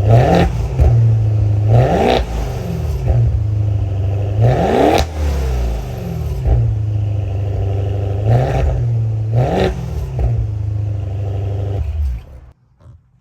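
2022 Maserati Ghibli Trofeo's 3.8-litre twin-turbo V8 idling and being free-revved five times, each rev rising quickly and falling back to idle, the highest about five seconds in. The engine sound stops shortly before the end.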